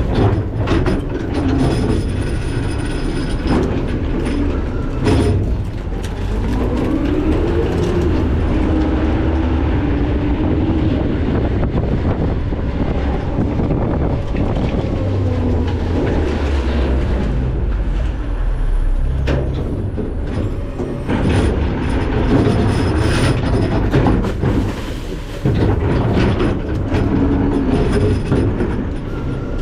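McNeilus ZR rear-load garbage truck at work, loud and continuous: its diesel engine rises and falls in pitch under a steady clatter and rattle of metal.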